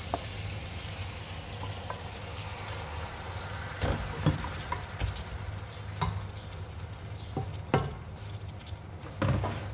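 Fish and chopped tomatoes sizzling in a metal pot on the stove, with about five short knocks and scrapes of a wooden spatula against the pot as the tomatoes are spread over the fish.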